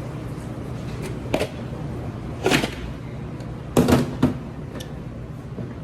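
A few dull knocks and clunks, the loudest a double knock about four seconds in, over a steady low hum.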